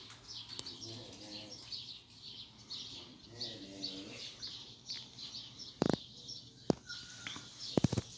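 Small birds chirping over and over, a few short calls each second. A couple of sharp clicks come about six seconds in, and a quick cluster of them near the end.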